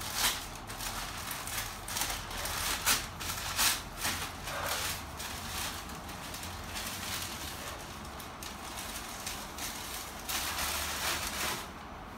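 Green wrapping around a small potted orchid rustling and crinkling as it is pulled open by hand, in uneven bursts that are loudest in the first few seconds, with another burst near the end.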